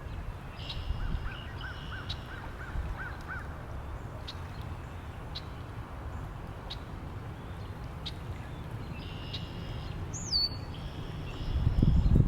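Wind rumbling on the microphone, gusting louder near the end, with wild birds calling over it: a quick run of short repeated notes in the first few seconds, then higher calls and a falling whistle about ten seconds in.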